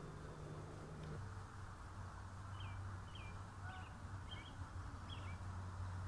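A bird calling five short, high chirps in quick succession over about three seconds, above a steady low hum.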